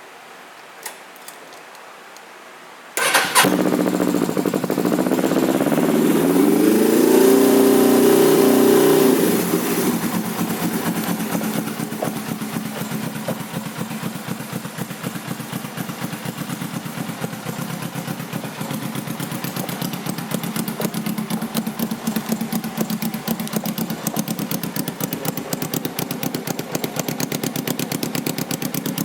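2006 Suzuki GS500F's parallel-twin engine with an aftermarket Delkevic exhaust starting up about three seconds in. It catches at once, runs higher with its pitch rising and falling back for several seconds, then settles into a steady idle.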